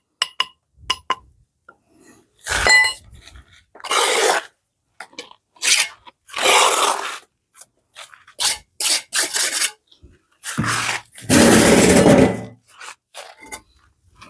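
Objects being handled: a run of sharp clinks and knocks with several longer scraping noises, the longest and loudest near the end.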